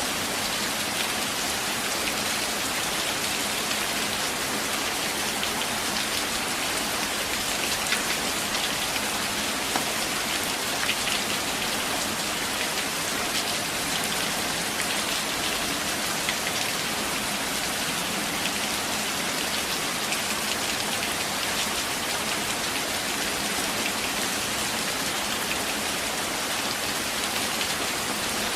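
Steady rain falling in a forest, an even hiss with scattered louder drops ticking through it.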